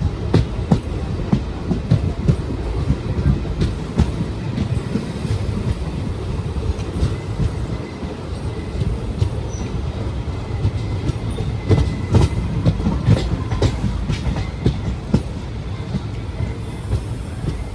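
Express passenger train running along the track: a steady rumble with irregular clickety-clack of wheels over rail joints.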